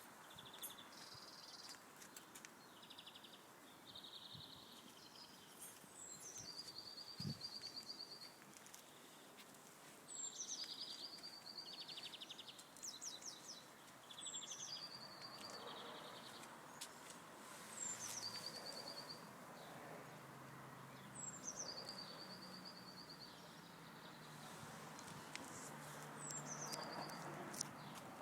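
A small songbird singing the same short phrase over and over every few seconds: a falling whistle that runs into a rapid even trill, over faint background noise.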